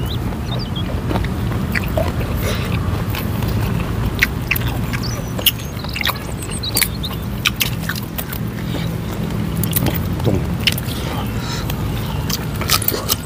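Close-up chewing of raw leafy vegetables, with many short sharp clicks and crackles of leaves being snapped and stripped from their stems by hand, over a steady low hum.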